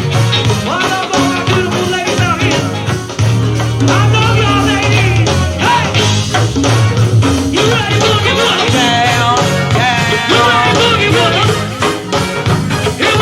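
Live go-go band playing, with a singer's voice over a steady drum and percussion groove.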